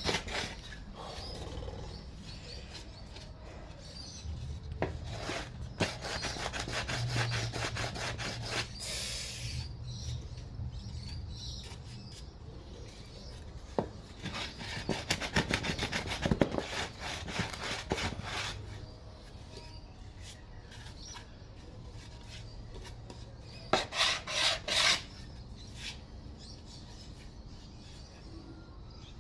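A rough edge of wood being smoothed by hand, in several bouts of quick back-and-forth rubbing strokes with pauses between them.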